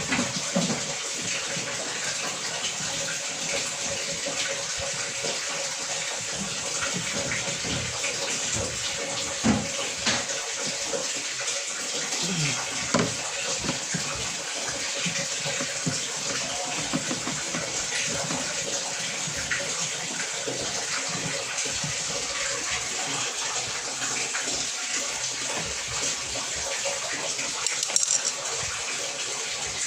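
Water running in a steady hiss, with a few short knocks and clicks from handling scattered through it.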